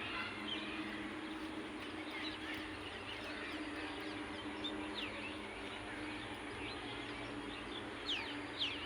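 Birds chirping and calling in many short notes, with a couple of louder, sharp downward-sweeping calls near the end.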